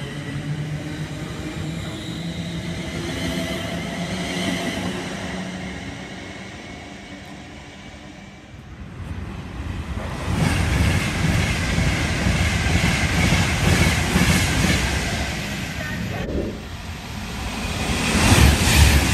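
Electric multiple-unit train pulling out with a steady motor whine that fades away over the first several seconds. Then an express train approaches and passes through the station at speed, a growing rush and rumble of wheels on rails that is loudest near the end.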